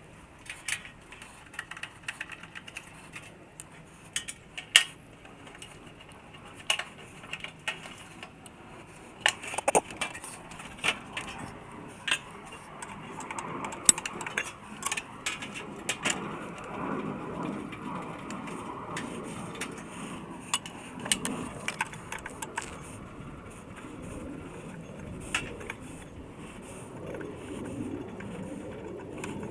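Irregular clinks, taps and knocks of metal tools and parts being handled, with a denser stretch of rustling and handling noise in the second half.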